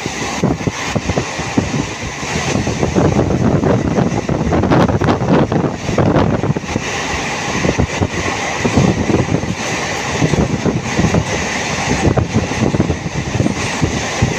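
Moving train's steady running noise with heavy wind buffeting on the microphone.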